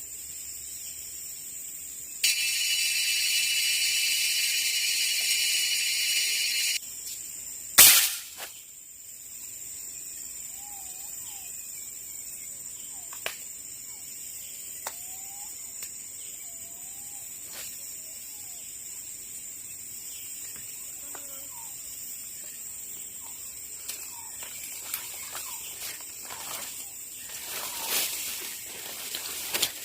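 Forest sounds. A loud, steady insect drone starts and cuts off abruptly after about four seconds. A single sharp crack follows, then soft, wavering whistled bird calls repeat every second or two, with light clicks and rustling near the end.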